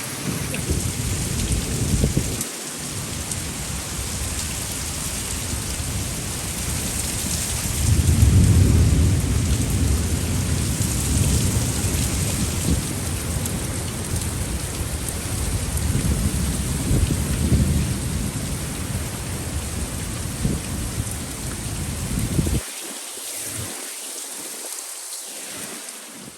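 Thunderstorm with heavy rain and strong wind, a deep low rumble swelling loudest about eight seconds in. Near the end the low rumble drops away suddenly, leaving only the hiss of rain.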